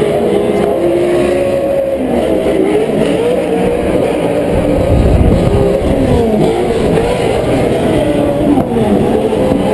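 Several Pro 4 short-course off-road race trucks' V8 engines revving around the track, their pitches rising and falling as they accelerate and lift. A louder low rumble swells about five seconds in.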